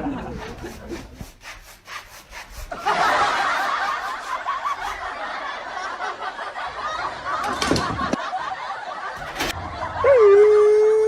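Scattered clicks, then several seconds of busy chattering noise. Near the end a dog starts one long, steady howl that rises slightly in pitch.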